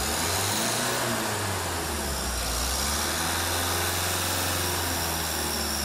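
Car engine idling steadily under an open hood, a low hum with a steady hiss above it. The engine has blow-by, pushing smoke out of the crankcase, the fault the inspection found.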